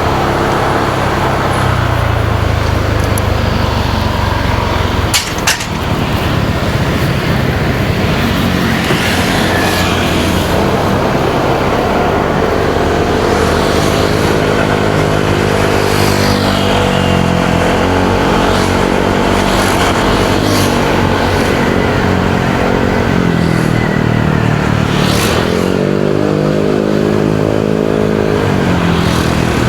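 Motorcycle engine running on the road, its pitch rising and falling several times as the rider accelerates and eases off, over steady road and traffic noise. A sharp click about five seconds in.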